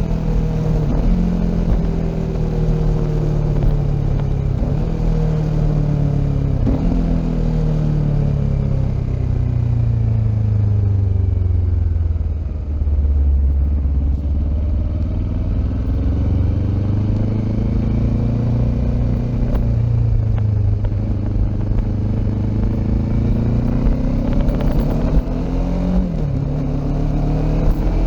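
Kawasaki Ninja 400 parallel-twin engine running through an aftermarket Akrapovic exhaust while riding. The engine pitch slides down over the first half, is lowest about halfway through, then climbs slowly again as the bike picks up revs.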